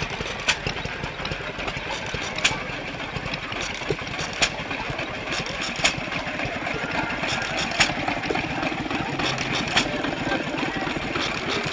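Vintage stationary engines running, a steady low chugging with a sharp pop about every two seconds.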